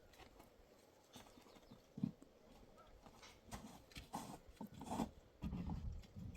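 Irregular knocks and light clatter, with a sharp knock about two seconds in and a busier run of low thumps near the end.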